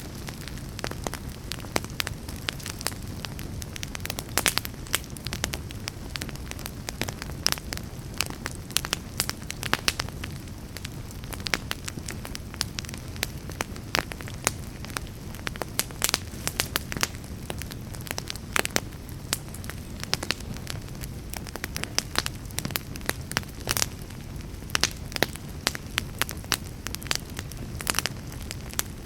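Wood fire burning with a steady low rumble and frequent sharp crackles and pops, several a second.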